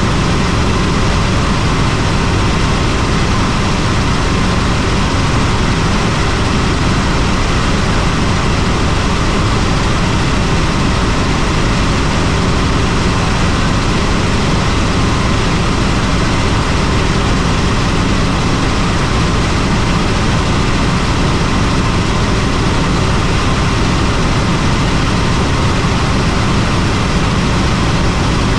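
Helicopter in flight: steady, loud rotor and turbine engine noise that does not change.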